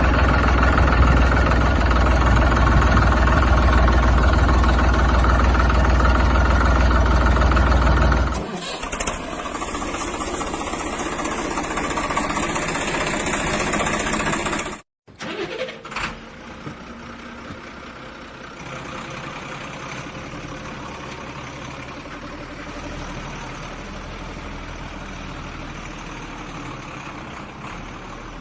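Vehicle engine running, heard in three separately cut sections. The first is loud and heavy, up to about 8 seconds in. The second, different in tone, runs until a brief dropout about halfway. The third is quieter and steady to the end.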